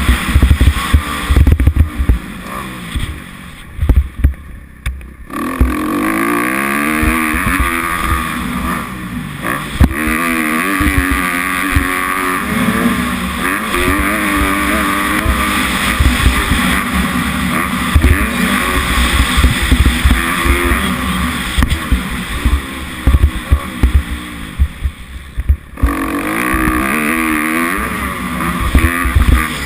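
Kawasaki KX250F four-stroke single-cylinder motocross engine revving up and down under a rider, with heavy wind buffeting on the microphone. The engine drops off briefly about four seconds in and again near the end before picking back up.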